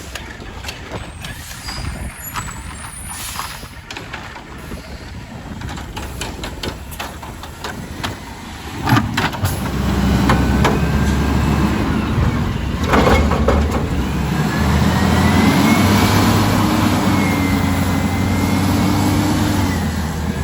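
Garbage truck at work: a sharp hiss-bang about nine seconds in, then the truck's engine runs loud and steady with a whine over it, and a second bang about four seconds later.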